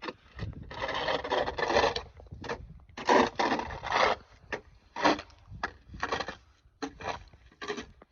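Snow shovel scraping and pushing snow: an irregular run of gritty scrapes, two of them about a second long and the rest short strokes.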